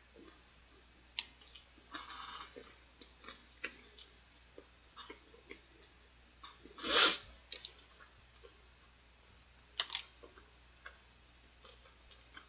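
A person chewing and eating fried chicken by hand: scattered small mouth clicks and smacks, with one much louder brief noise about seven seconds in.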